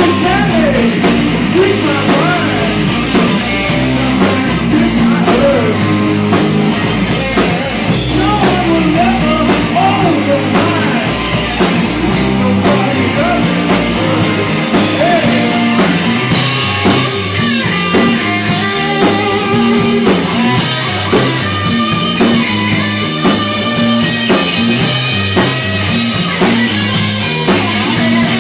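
Live rock band playing: electric guitar, bass guitar and drum kit, with a guitar line that bends up and down in pitch over the rhythm section in the first half.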